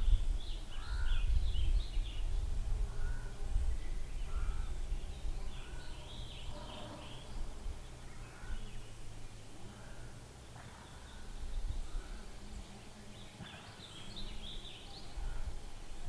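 Birds calling in short, scattered chirps and calls over a low, uneven rumble of wind on the microphone.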